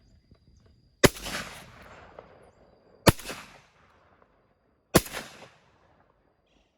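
Three shotgun shots about two seconds apart, each followed by a rolling echo that dies away; the first shot's echo lasts longest.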